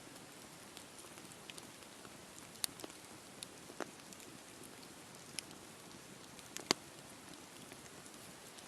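Wood campfire burning: a steady low rush of flame with scattered sharp crackles and pops, the loudest pop about three-quarters of the way through.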